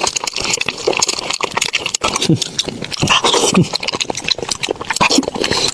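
Close-miked chewing and crunching of chicken heads: a dense run of crackling bone and cartilage clicks, with a few short wet mouth sounds that fall in pitch.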